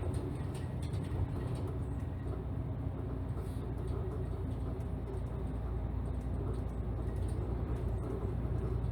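Ex-Toei city bus under way, heard from inside the cabin: a steady engine drone with road noise.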